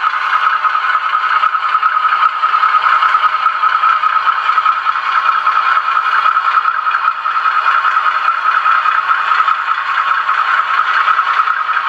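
OO-scale model locomotive running: its small electric motor and gears whirring steadily, with a rattle from the wheels on the track.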